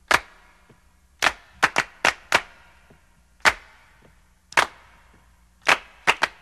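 A series of sharp, irregularly spaced clicks or snaps, about a dozen, some coming in quick pairs or triplets.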